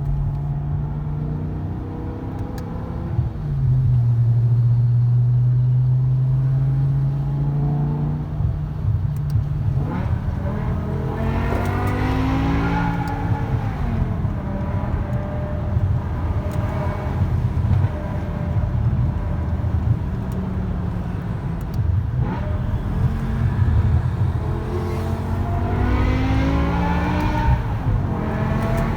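BMW E60 M5's V10 engine through an iPE aftermarket exhaust. It holds a steady drone for the first several seconds, then the revs climb and drop several times.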